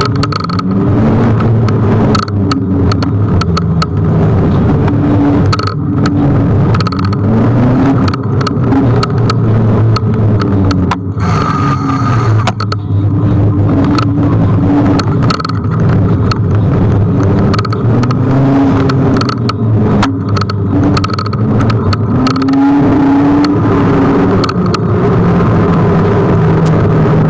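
Kugoo G1 electric scooter riding on city streets: a loud steady rumble with a pitched whine that rises and falls with speed, and frequent sharp clicks and knocks.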